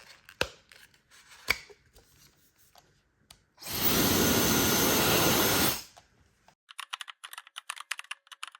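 A few handling clicks, then a hand-held hair dryer switched on and blowing steadily for about two seconds, its fan motor giving a faint whine over the rush of air, before it cuts off. A run of rapid light clicks follows near the end.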